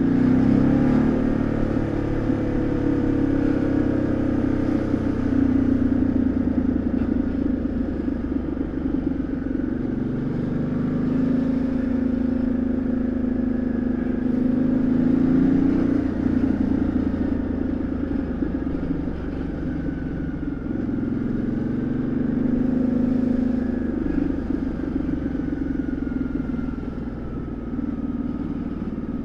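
Ducati Multistrada 1200S's L-twin engine and exhaust heard from onboard while riding, the engine note rising and falling several times as the rider opens and rolls off the throttle.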